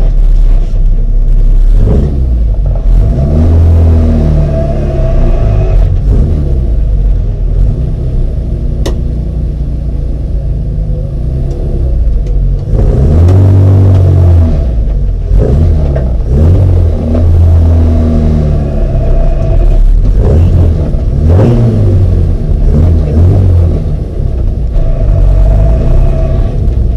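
Mini racing car engine running hard, revving up and dropping back again and again as it changes gear, over a heavy low rumble.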